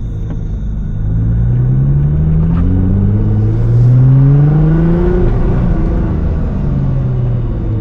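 Modified Nissan R35 GT-R's twin-turbo V6 accelerating, its pitch climbing steadily for about four seconds. Around five seconds in the pitch drops back and the engine runs on steadily at a lower pitch.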